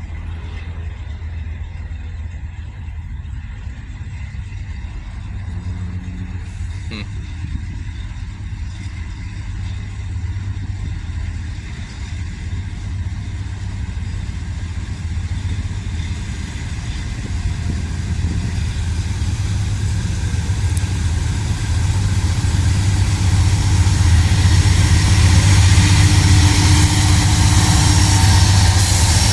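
Diesel freight locomotives running with a steady low engine drone that grows steadily louder, with more high hiss over the last few seconds.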